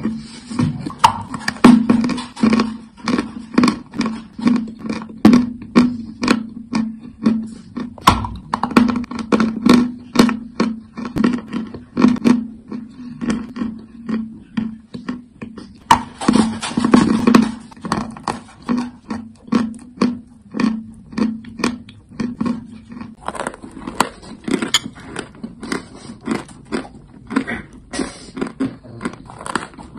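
Crunchy chalk being bitten and chewed close to the microphone: sharp crunches about twice a second, with a denser burst of crunching around the middle.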